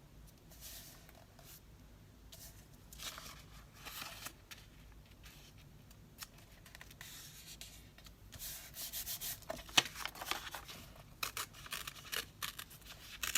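Sheets of craft paper being handled and rubbed, in irregular short rustling strokes that grow busier in the second half, with one sharp tap about ten seconds in.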